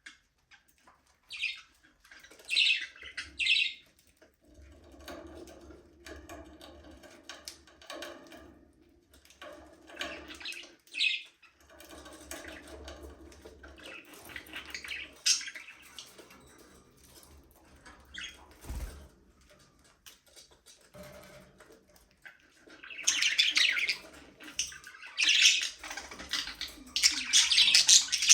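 Budgerigars chirping and squawking in short scattered bursts, with softer chattering between, then a dense, loud stretch of chirping over the last few seconds.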